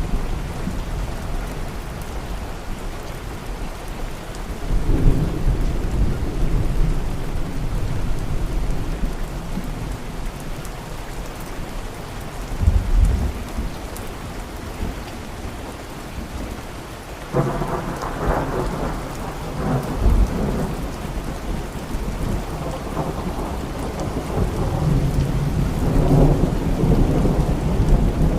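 Steady heavy rain with rolling thunder. Low rumbles swell and fade a few times, and a louder peal breaks out about two-thirds of the way through and rolls on.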